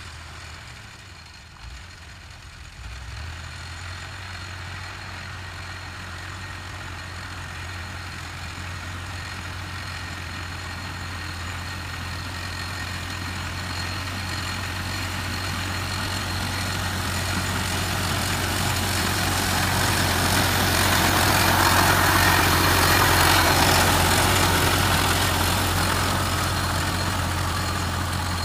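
Tractor engine running steadily with a low hum, the noise swelling gradually to its loudest about three quarters of the way through, then easing slightly.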